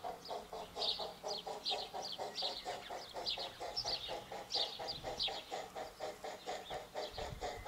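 Small birds chirping in short falling notes, over a steady rhythmic pulsing about four to five times a second.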